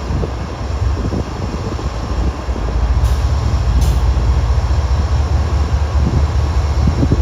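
Heavy freight train rumbling slowly, a steady deep rumble.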